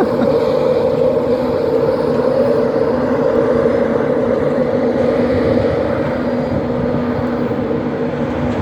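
Class 91 electric locomotive of an InterCity 225 train giving a steady hum over a low rumble, level throughout.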